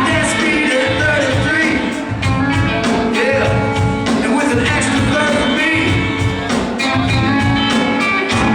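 Live band playing a song with a steady beat, drums and bass prominent under guitar and other pitched parts.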